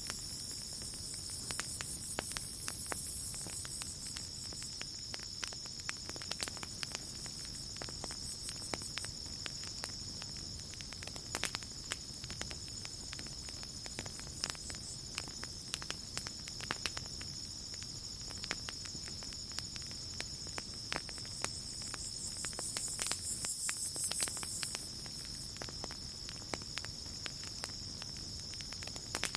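Campfire crackling with irregular sharp pops over a low rumble, against a steady high cricket trill. A second insect's pulsing chirp swells near the start and again about three quarters of the way through.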